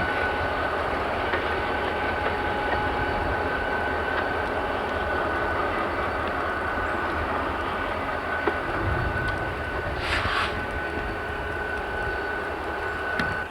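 Train rolling past with a steady rumble of railcars, a thin high tone over it, and a brief hiss about ten seconds in. The sound cuts off suddenly near the end.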